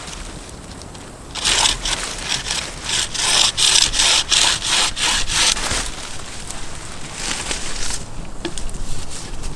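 Hand saw cutting wood: a run of quick back-and-forth rasping strokes starting a little over a second in and lasting about four seconds, then softer, irregular scraping.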